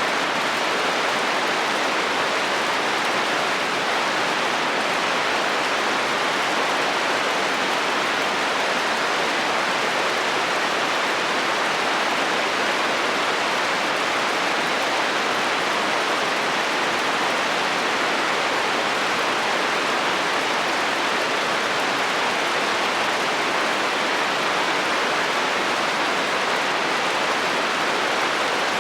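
Heavy rain falling steadily on a metal roof: an even, unbroken hiss with no thunder.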